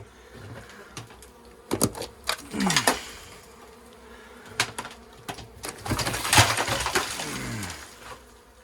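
Honeybees buzzing around an old nest site, with several sharp knocks and two longer scraping, crackling stretches, the louder one in the second half.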